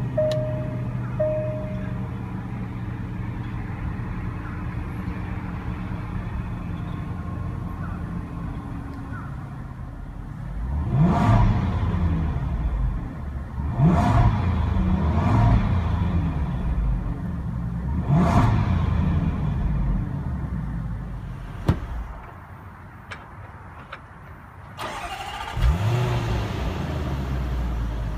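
The 2015 Range Rover Supercharged's 5.0-litre supercharged V8 idling steadily after a push-button start, then revved three times, each rev rising and falling back. It drops quieter for a few seconds, then rises again and settles into a steady run near the end.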